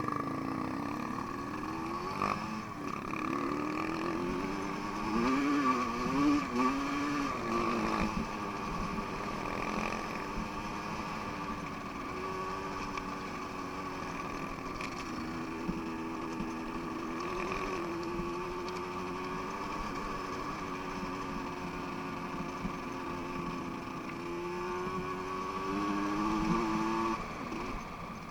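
Off-road motorcycle engine running, its pitch rising and falling as the throttle is opened and eased, with the wavering strongest a few seconds in and again near the end.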